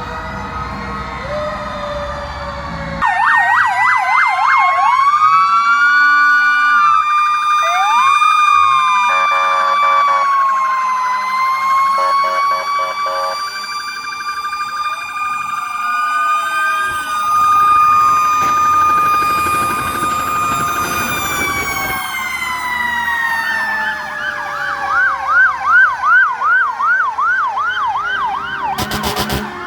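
Several fire apparatus sirens sounding at once, overlapping slow wails and fast yelps. Near the end their pitch slides steadily down.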